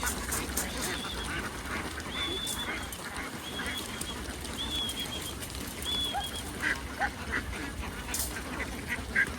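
A flock of farm ducks calling and quacking, with a short high note repeating about once a second.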